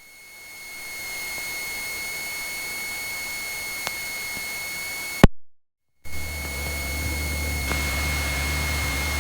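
Steady hiss with a thin, high whine, as picked up through a light aircraft's headset intercom, broken by a sharp click and about a second of dead silence some five seconds in. When it comes back, a low, steady drone from the plane's piston engine runs under the hiss.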